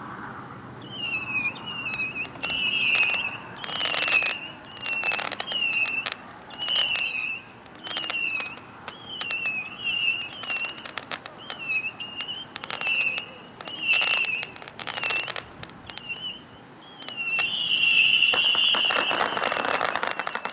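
A Green Hulk 200-shot missile battery firing: a quick series of small rockets, each a short high whistle with sharp pops and crackle, about once a second. Near the end it builds into a dense, loud volley.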